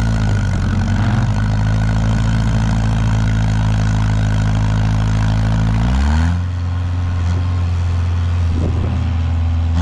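Heavy equipment engine running steadily under load during a chain pull on a machine stuck in a snowy ditch; its note changes about six seconds in.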